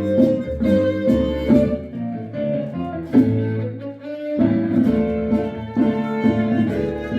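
Live instrumental music from a small ensemble, with bowed strings such as violin and cello over guitar, in a steady pulsing rhythm. It thins out briefly about four seconds in, then comes back fuller.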